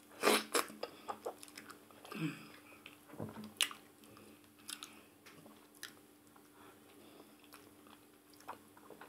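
Close-up chewing and mouth sounds of someone eating ogbono soup with maize fufu by hand, with sharp clicks and smacks scattered through, the loudest just after the start.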